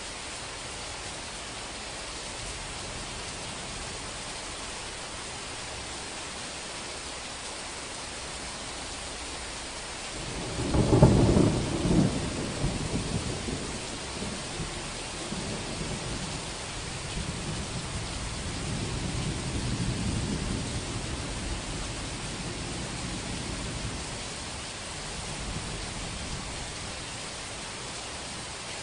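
Steady rain hissing, with a clap of thunder about ten seconds in whose low rumble rolls on in waves for some fifteen seconds before dying back to the rain.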